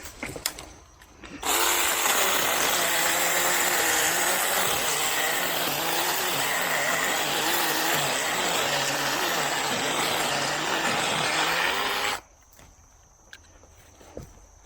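Small 6-inch battery-powered mini chainsaw cutting through a Chinese tallow tree for about ten seconds. Its motor pitch wavers as the chain bites into the wood, and it cuts off suddenly near the end.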